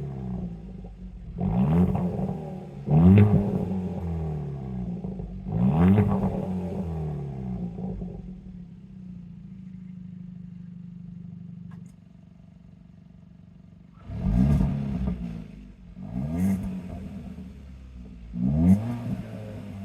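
Kia ProCeed GT's turbocharged 1.6-litre four-cylinder engine through a Bastuck aftermarket exhaust, revved in six quick blips that each fall back to idle. Three blips come close together, then the engine idles steadily, its idle dropping lower about 12 s in, before three more blips near the end.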